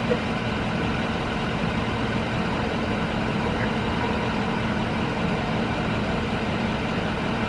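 Vehicle engine idling with a steady, even hum.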